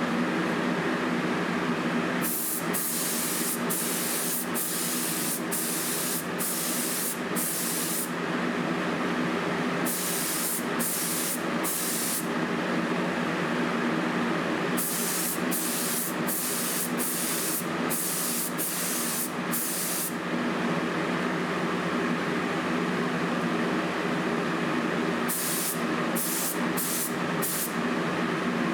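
Compressed-air spray gun hissing in short bursts, a fraction of a second each and several in quick succession, in four runs with pauses between, over a steady machine hum.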